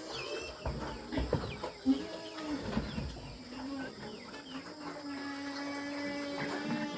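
Chickens calling, with many short falling chirps and a longer held call in the last two seconds, and a few knocks in the first half.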